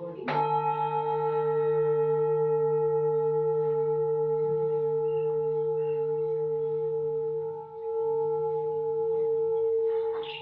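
A singing bowl struck once just after the start, then ringing on in a long, steady, layered tone that wavers in loudness, dipping briefly near the end before another strike.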